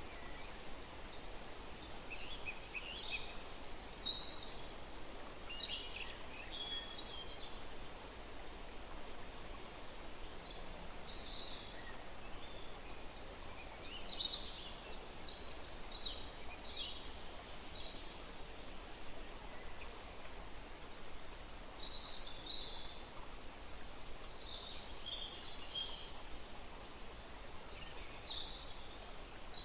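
Small birds chirping and singing in quick clusters of short, high calls throughout, over a steady rustling rush of wind blowing through trees.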